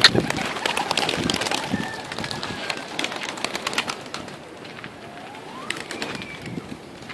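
Domestic pigeons cooing, with many short sharp clicks and taps scattered through.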